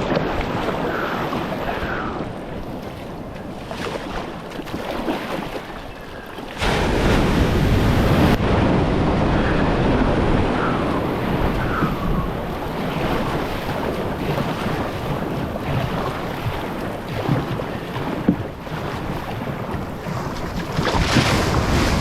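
Ocean surf breaking and washing on a beach, with wind buffeting the microphone; the surf grows suddenly louder about six and a half seconds in.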